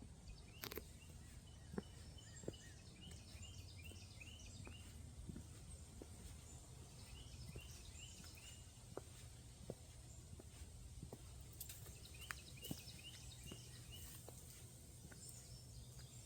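Faint bird song: a bird gives runs of short, quickly repeated chirped notes, three runs spaced a few seconds apart. Under it lies a low steady rumble with a few light ticks.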